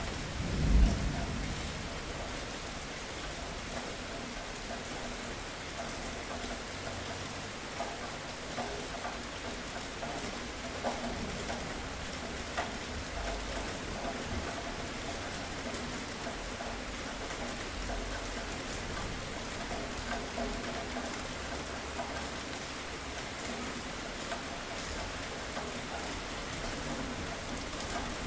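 Steady rain, with a low rumble of thunder about a second in.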